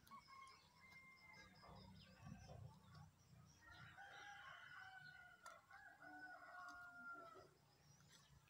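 Faint bird calls: a few short calls, then one long drawn-out call about three and a half seconds in that lasts over three seconds and falls a little at the end.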